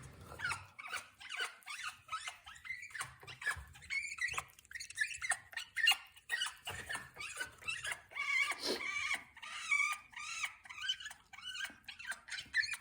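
African grey parrot vocalising: a busy run of short whistles, squeaks and chirps that slide up and down in pitch, with scattered clicks.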